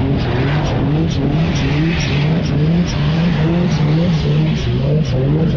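Off-road vehicle engine running under load, its pitch rising and falling again and again, with a regular clicking rattle over it.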